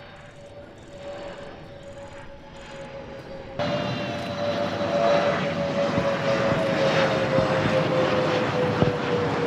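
Aircraft engines in flight overhead, a steady engine tone slowly falling in pitch as it passes. The noise jumps abruptly louder about three and a half seconds in.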